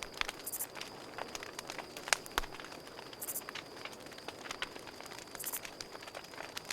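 Campfire crackling, with sharp pops and snaps at irregular intervals, over a steady high cricket trill.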